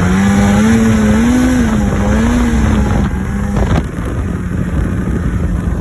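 Polaris XC 600 two-stroke snowmobile engine running at speed, its pitch wavering up and down. It eases off about three seconds in.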